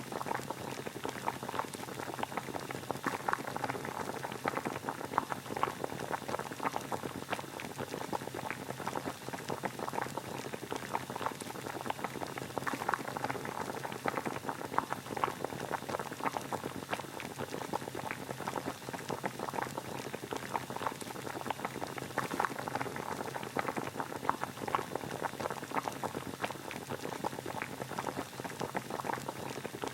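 Water boiling: a steady, dense bubbling with many small pops.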